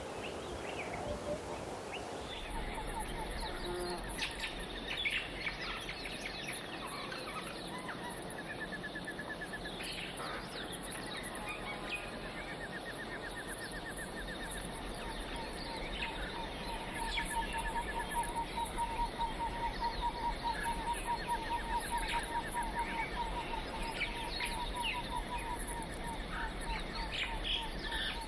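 Several birds calling together: many short chirps, with rapid trills of quickly repeated notes, one of which runs on through the second half.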